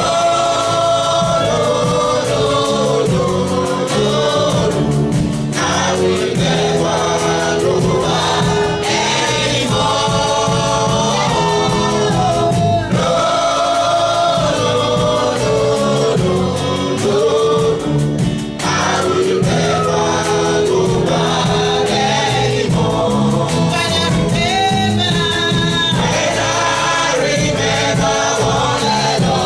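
Gospel worship song sung by a choir with instrumental accompaniment.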